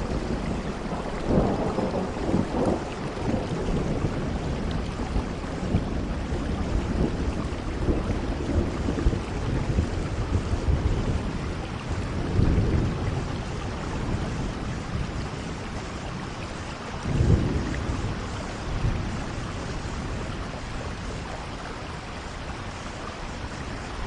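Steady rainfall with low rumbles of thunder rolling in and out, the loudest and sharpest about two-thirds of the way through.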